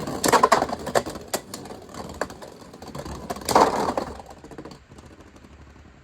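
Two spinning Beyblade tops, a 3D-printed one and a Beyblade X Shark Edge, clashing and rattling in a plastic stadium: a rapid clatter of sharp clacks. A loud hard clash about three and a half seconds in knocks one out of the stadium, after which the clatter stops.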